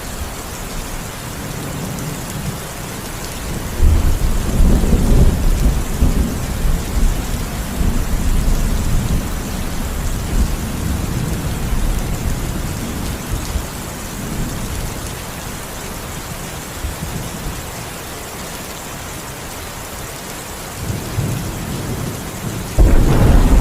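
Steady rain with thunder: a deep rumble breaks in about four seconds in and rolls on for several seconds, and a second loud clap comes near the end.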